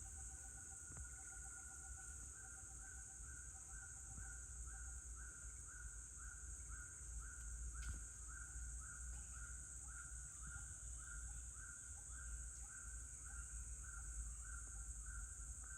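Forest ambience: a steady high-pitched insect chorus, with an animal call repeating about twice a second. A rapid lower trill runs alongside for the first few seconds, then stops.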